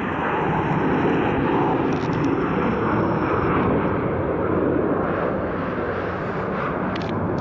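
Jet airliner's engines running with a steady rushing noise just after touchdown, as the plane rolls out on the runway.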